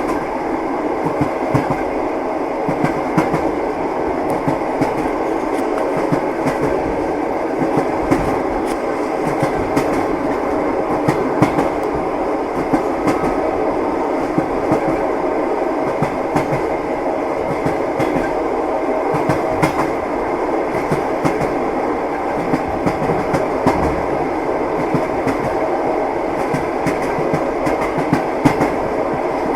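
Train running steadily, its wheels clattering with a stream of irregular clicks and knocks over the rail.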